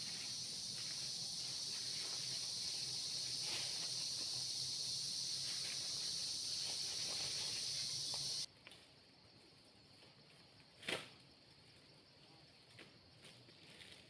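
Steady high-pitched drone of a forest insect chorus with scattered faint clicks, cut off abruptly about eight seconds in. After that it is much quieter, with a single sharp click or snap about eleven seconds in.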